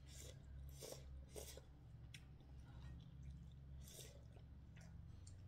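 Faint chewing of pork with bamboo shoot: a handful of short, wet mouth smacks and clicks spread through, over a low steady hum.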